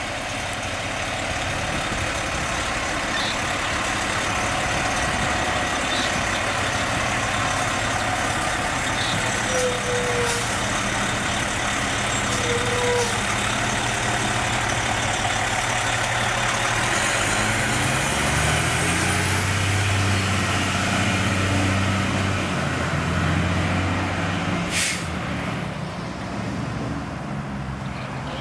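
Fire engine's diesel, a 470 hp Detroit Series 60, running under load, its note climbing about two-thirds of the way through as it speeds up. A brief hiss of air near the end.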